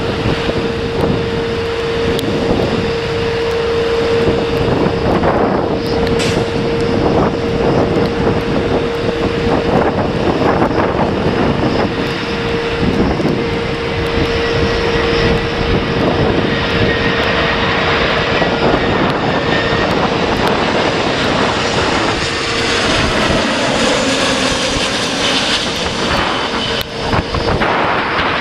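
Jet airliner's engines on landing approach, a steady whine that fades about three quarters of the way through, over heavy gusting wind noise on the microphone.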